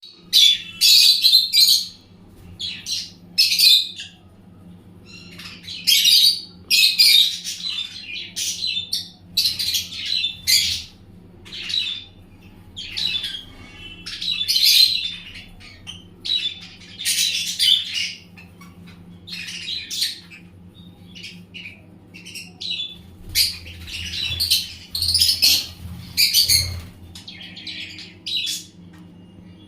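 Small pet parrots (love birds) chattering in short, high-pitched squawks and chirps, in bunches every second or two, over a faint steady low hum.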